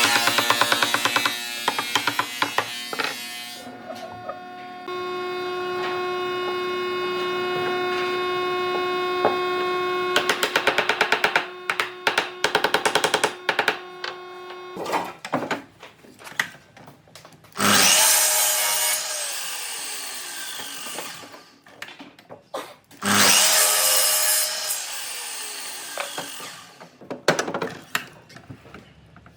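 Woodworking power tool on timber. In the first half it runs with a steady whine and rapid clicking. From about halfway it makes several long, noisy cutting passes, the pitch sagging during each cut.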